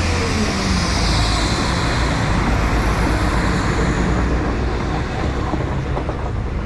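A diesel passenger train running close by at a station platform: a loud, steady rumble of engine and wheels with a faint high whine above it.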